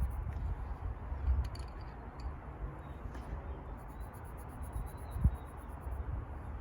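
Coloured pencil scratching on journal paper in quick back-and-forth shading strokes, in runs that stop and start, over a low wind rumble on the microphone.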